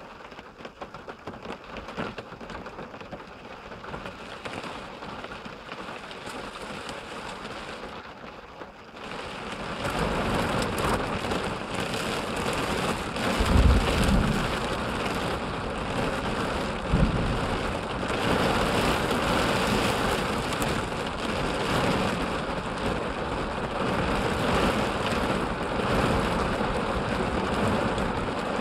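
Rain hitting a minivan's roof and windshield, heard from inside the cabin. It starts lighter and turns into a heavy downpour about nine seconds in. Two short, low thumps come a few seconds apart about halfway through.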